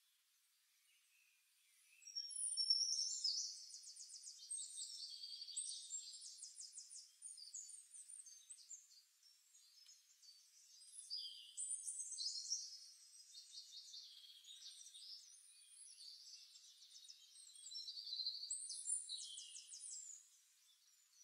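A songbird singing long, high-pitched phrases of rapid trills and quick sweeps, in three long bouts with short gaps between them.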